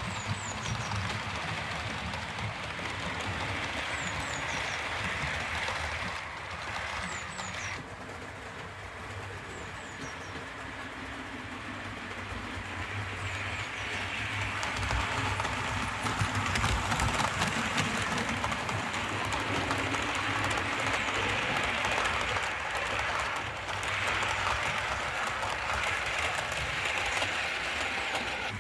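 OO gauge model electric locomotive running with a rake of coaches: a steady rumble of wheels and motor with fine clicking over the rail joints, getting louder about halfway through as the train comes closer.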